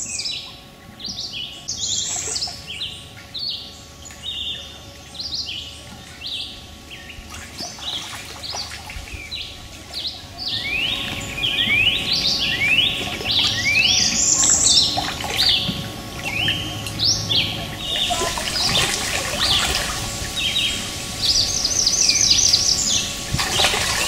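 Wild birds calling: many quick rising whistled notes, several a second, thinning out for a few seconds midway, with a fast high trill near the end.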